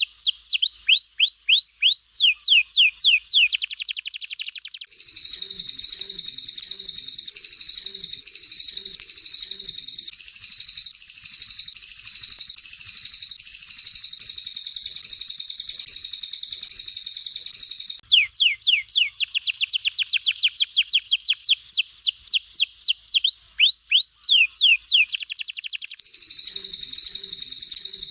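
Recorded songbird song for bird training: a canary and a cililin in alternation. Fast runs of high whistles that each sweep downward, several a second, trade off with long stretches of a dense, continuous high trill.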